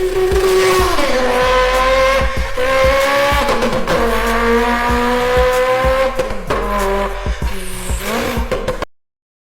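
High-revving racing engine accelerating, its pitch dropping at each gear change (about 1, 3.5 and 6.5 seconds in) and climbing again, with sharp pops along the way. It cuts off abruptly near the end.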